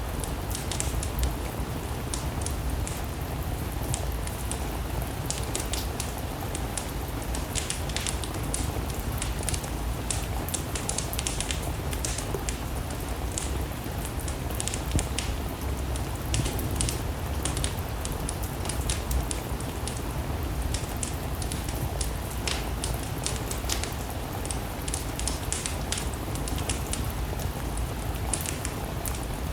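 Steady rain with a wood fire crackling, its sharp irregular pops and snaps scattered over a low, even rumble.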